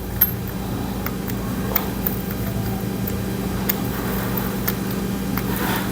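Steady mechanical hum at an even level, with a few faint metallic clicks from a wrench working on the engine parts.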